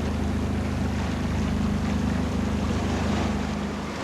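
Sailing yacht under way at speed: rushing water and wind noise with a steady low mechanical hum running underneath.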